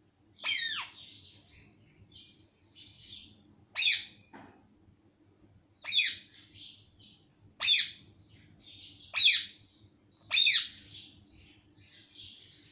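Pet parrot calling: about six loud, sharp calls a second or two apart, with softer chattering in between.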